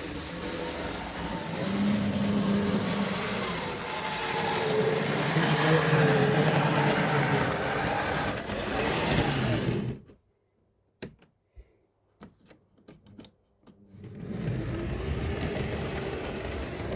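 Tri-ang Railways model train running on the track, a steady motor whirr with wheel and track rattle. About ten seconds in the sound drops to near silence with a few faint clicks, then the running returns about four seconds later.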